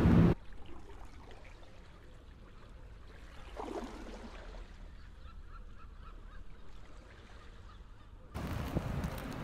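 Quiet ambience with a single bird call falling in pitch about three and a half seconds in. Louder wind noise on the microphone cuts out just after the start and comes back near the end.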